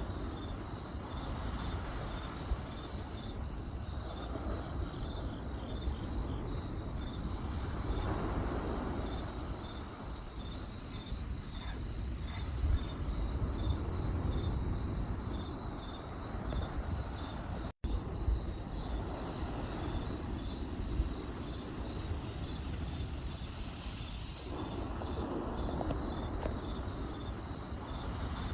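Crickets chirping in a steady, fast pulsing trill over a low rushing from a campfire, with a few sharp crackles and pops. The sound cuts out for an instant about two-thirds of the way through.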